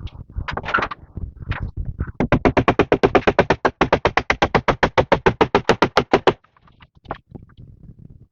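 A rapid, even run of sharp knocks, about ten a second, lasting about four seconds and stopping suddenly, with scattered single knocks before and after.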